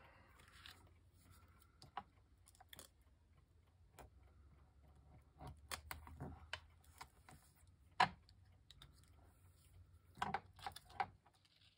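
Sporadic light clicks, taps and rustles of paper and craft pieces being handled on a work table, with one sharper click about eight seconds in and a small flurry of taps near the end, over a faint low hum.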